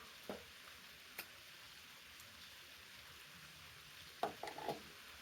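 Faint steady background hiss with two small clicks in the first second or so, and a brief, faint muffled sound about four seconds in.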